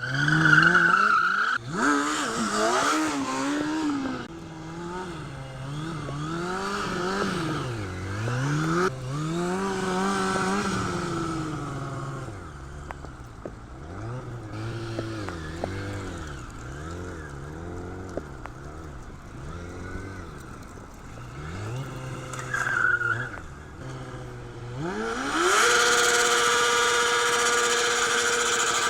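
Kawasaki sport motorcycle engine revving up and down again and again during stunt riding, with tyre squeal at times. Near the end the engine is held at high revs for a few seconds before dropping.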